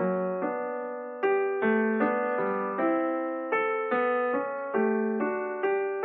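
Background keyboard music in a piano tone: a slow, gentle melody of struck notes, about two or three a second, each fading away before the next.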